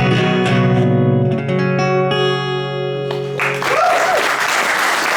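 A guitar's closing strummed chords ring out. About three and a half seconds in, the audience breaks into applause and cheering.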